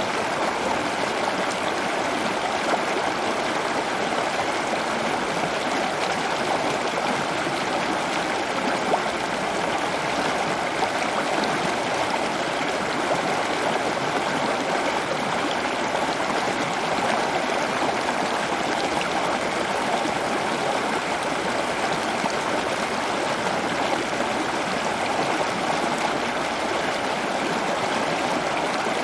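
Steady running water, a continuous trickling rush that holds even throughout.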